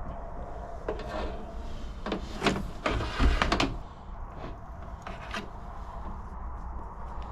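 Handling noises from repair work: a cluster of clicks, knocks and scrapes in the first half, then only a faint steady background.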